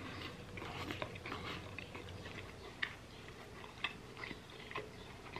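A person chewing a mouthful of McDonald's Beef Fantastique beef burger close to the microphone: soft, irregular wet mouth sounds with a few sharper clicks, two of them about three and four seconds in.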